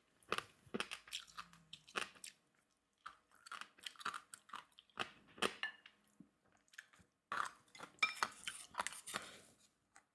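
A person chewing and crunching food close to the microphone: irregular short crunches and wet mouth clicks, with two brief pauses.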